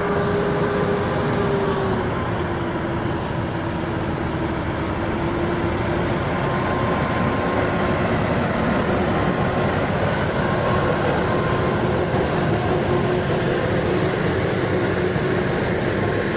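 Diesel truck engine running steadily, with a held drone whose pitch drops slightly about two seconds in and then stays level.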